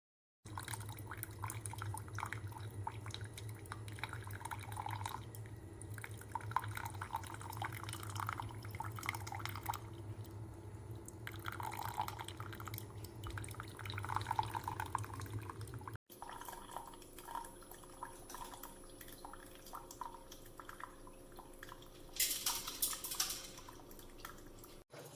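Single-serve coffee maker brewing: a steady pump hum under coffee dripping and splashing into the cup. The hum drops away about two-thirds of the way through while the dripping goes on.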